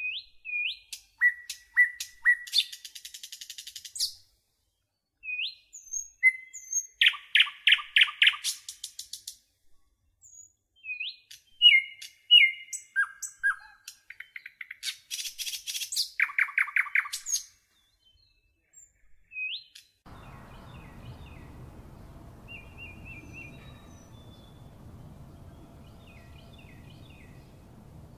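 Birds singing: short chirps, quick whistled glides and rapid trills in separate phrases with clean silent gaps between them. From about twenty seconds in, fainter chirping sits over a steady outdoor hiss.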